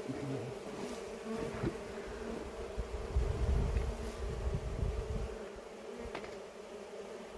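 Honeybees of a wild colony in an oak tree hollow buzzing steadily, a dense swarm hum, with a low rumble on the microphone from about three to five seconds in.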